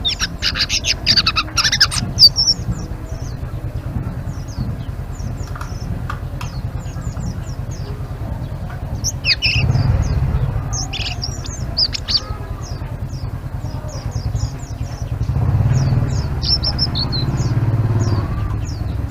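A selendang biru songbird chattering ('ngeriwik'): rapid, quick-sweeping high chirps, dense in the first two seconds and again around the middle, sparser in between. A low rumble underneath swells twice, near the middle and again near the end.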